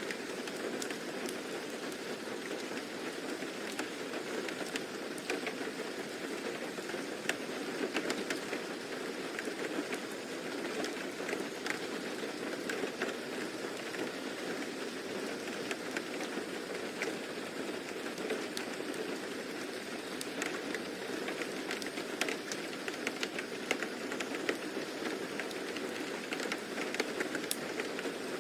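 Steady rain: an even hiss with many small scattered drop ticks.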